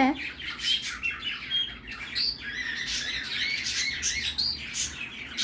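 Cockatiel chattering in a rapid budgerigar-style warble: a continuous run of short chirps, squeaks and scratchy notes, mimicking a budgie's song.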